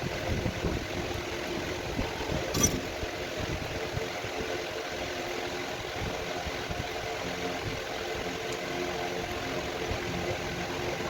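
Engine idling steadily at constant speed, with one sharp click about two and a half seconds in.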